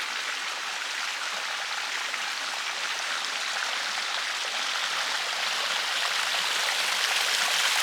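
River water rushing steadily over rocks, a dense even hiss that grows a little louder near the end.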